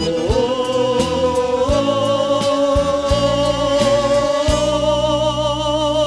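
Southern Brazilian gaúcho regional band music: voices hold one long note with a wavering vibrato over the band's steady bass, stepping up in pitch once near the start. A few drum hits sound under the held note.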